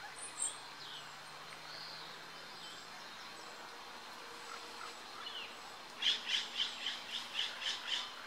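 Wild songbird calls: a few thin chirps, then near the end a rapid, evenly spaced series of about nine sharp notes, roughly four a second.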